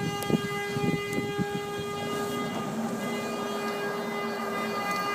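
A vehicle horn blaring continuously in one steady tone. A second, lower tone joins about two seconds in. There are a few sharp pops in the first second or so.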